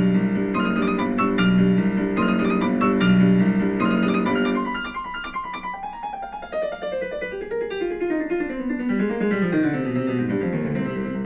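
Background piano music: a repeating chord pattern, then a falling run of notes from about halfway through.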